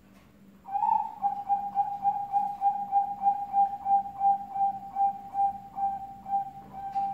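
Zebra dove (perkutut) cooing: a long rolling run of soft, evenly spaced notes at about three a second, starting about a second in.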